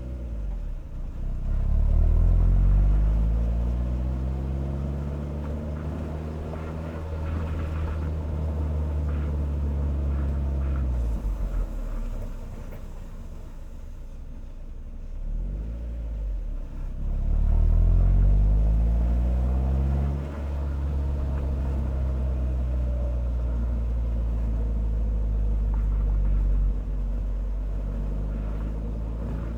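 Car exhaust, picked up by a microphone on the inner rear bumper, while the car is driven. The exhaust note rises under acceleration about two seconds in and falls away as the car slows through the middle. It rises again around eighteen seconds, dips briefly, then settles into a steady cruise.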